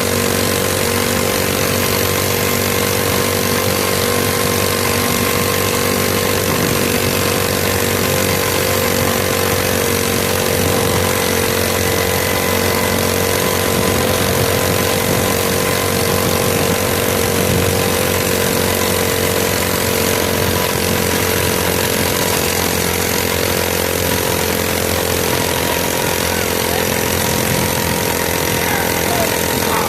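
Mini bike's small engine running steadily, its pitch holding nearly constant.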